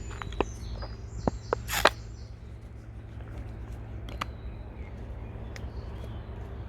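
Railway platform ambience: a steady low hum with scattered clicks and a sharp knock just before two seconds in. Short high chirps sound in the first two seconds.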